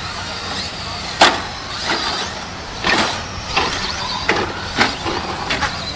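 Radio-controlled 2WD short course racing trucks running on the track, their motors giving a steady high whine, with about half a dozen sharp knocks as the trucks hit bumps or each other.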